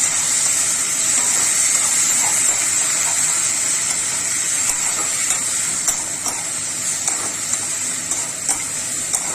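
Sauce and vegetables sizzling steadily in a hot kadai, with a few light clicks of a spoon against the pan in the second half.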